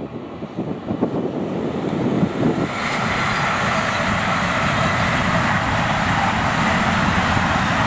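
CrossCountry Voyager diesel multiple unit passing at speed, a steady rushing of engine and wheel-on-rail noise that swells in about three seconds in and then holds. Before it, gusts of wind buffet the microphone.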